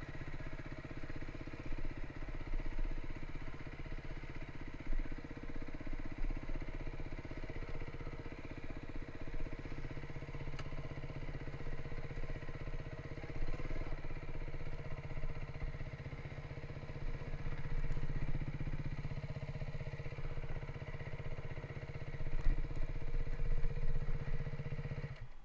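Beta 350 enduro motorcycle's four-stroke single-cylinder engine running steadily at low revs, with a few small rises in throttle as the bike is edged slowly over rough ground.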